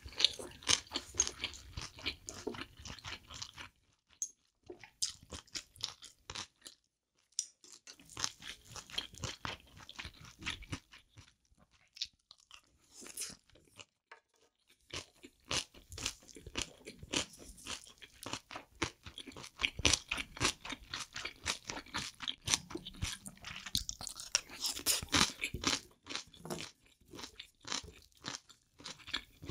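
Close-miked chewing and wet crunching of spicy seafood fried rice with chopped octopus and abalone, made of dense runs of short mouth clicks. The chewing stops twice for a few seconds.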